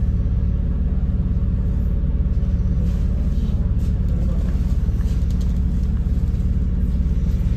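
MAZ-203 city bus running, heard from inside the passenger cabin: a steady low engine drone with road rumble.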